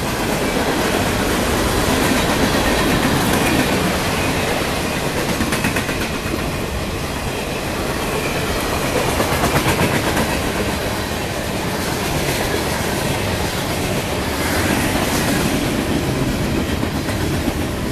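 CSX freight train rolling past, a steady rumble and clatter of steel wheels on the rails with a faint high wheel squeal at times.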